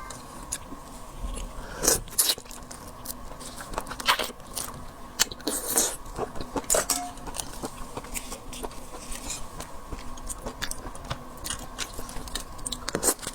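Close-miked eating of shellfish: irregular clicks, crackles and crunches of shells being cracked and peeled and of chewing.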